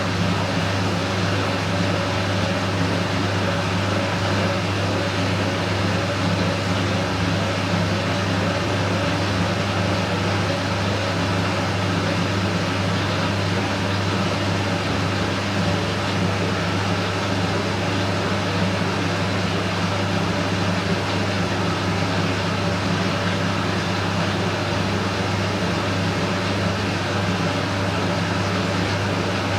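Candy Smart Inverter front-loading washing machine running, a steady low hum with a faint, slowly wavering whine from its inverter motor and drum.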